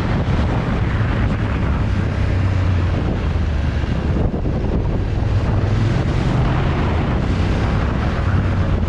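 Wind buffeting the microphone of a motorcycle on the move, with the engine running underneath as a low hum that shifts slightly in pitch about halfway through.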